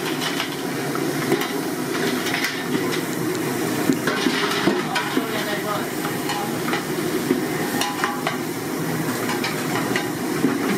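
Food sizzling in hot oil in a pan while it is stirred, with irregular scrapes and knocks of the spatula against the pan.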